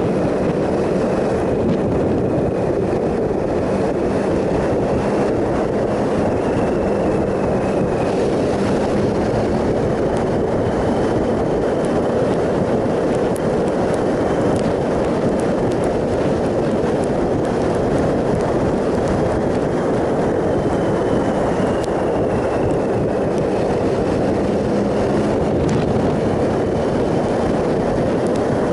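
Triumph Sprint ST 1050's three-cylinder engine running steadily at cruising speed, its pitch drifting slightly, under a heavy rush of wind and road noise.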